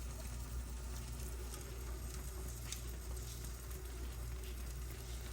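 Faint crackling and sizzling of food cooking in a pan on the stove, with scattered small pops over a steady low hum.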